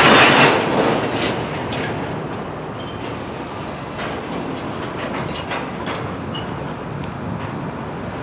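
Railroad freight cars rolling through a rail yard, their wheels clacking and knocking over rail joints and switches. There is a loud rush of noise at the start, then a steadier rolling sound.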